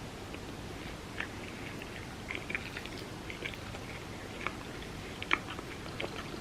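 Close-up chewing of food, with scattered short, wet clicks and smacks from the mouth over a steady low hiss; the sharpest click comes about five seconds in.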